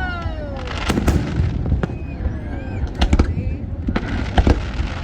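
Fireworks display going off, with sharp bangs and crackles about a second in, around three seconds in and again near four and a half seconds, over the chatter of a crowd.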